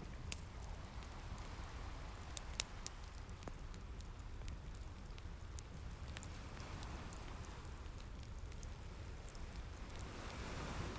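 Fireplace crackling, with scattered sharp pops (one loud pop a few seconds in), over a steady low rumble of ocean waves washing in and swelling twice.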